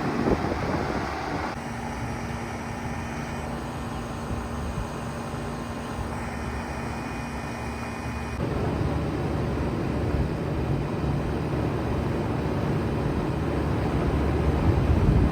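2007 Bard 3.5-ton wall-hung heat pump running in cooling mode: a steady mechanical running noise with a low rumble and airflow rush, and a faint steady hum through part of it.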